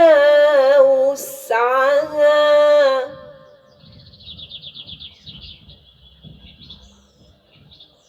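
Melodic Quran recitation, a long held, ornamented phrase sung with vibrato that ends about three seconds in. About a second later a bird trills in a rapid run of high repeated notes for about two seconds, over faint low rustling.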